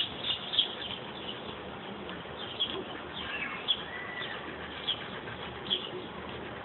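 Birds chirping in the background: scattered short high chirps, with one longer whistled note about four seconds in, over a faint steady outdoor hiss.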